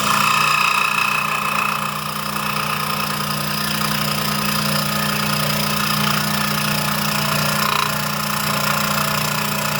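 Electric scroll saw running steadily, its reciprocating blade cutting out an inside design: a constant motor hum under the buzz of the cut.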